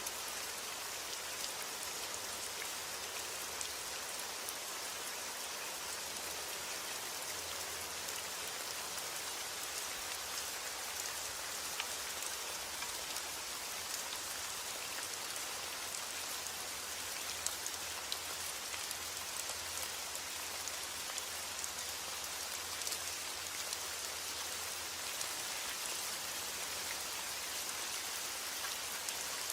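Steady heavy rain falling on a roof, with sharp individual drop ticks scattered throughout.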